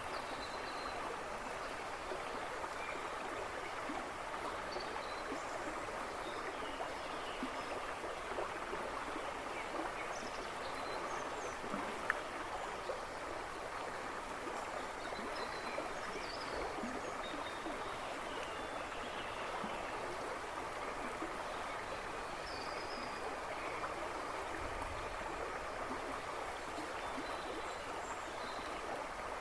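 A river rushing and babbling steadily, with scattered faint bird chirps behind it and a single brief click about twelve seconds in.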